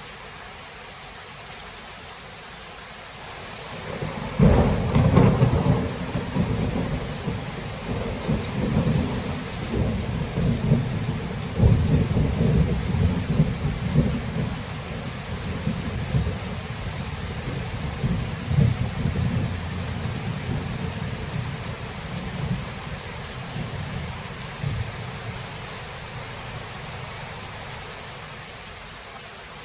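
Steady rain falling with a long peal of thunder that breaks about four seconds in. The rumble is loudest just after it starts and again about twelve seconds in, then slowly fades away over the next dozen seconds.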